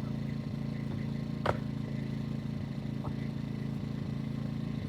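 Portable generator engine running steadily, with one sharp knock about a second and a half in and a few fainter ticks.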